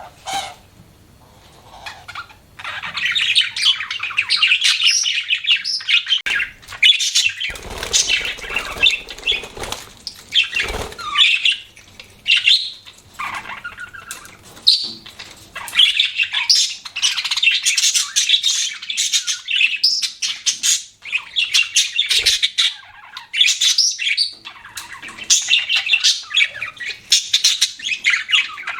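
Budgerigars chirping and warbling almost without pause, in fast, rapid chatter. There is a brief lull in the first two seconds, and a short bout of wing flapping or rustling about eight to eleven seconds in.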